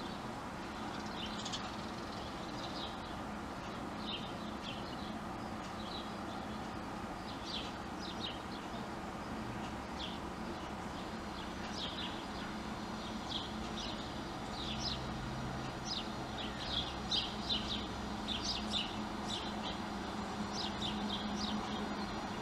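Small birds chirping: many short, high calls that come more often in the second half. Under them runs a steady low hum.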